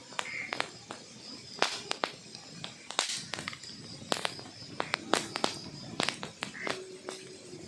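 Wood fire crackling in a fireplace: irregular sharp pops and snaps over a soft background rustle, with a few louder pops among them.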